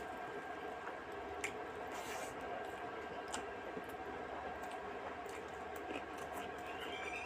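Wet squishing eating sounds of rice and fish curry being mixed and chewed, with a few sharp clicks, over a steady background hum.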